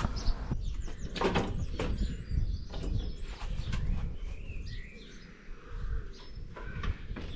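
Birds chirping, with knocks and clunks as a table saw is carried out and set onto its stand.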